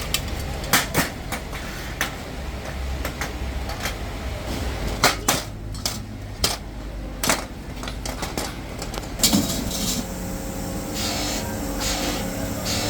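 Factory work: irregular sharp knocks and clatter of parts being handled, over a steady low machine hum. About nine seconds in, a steady machine tone starts and carries on.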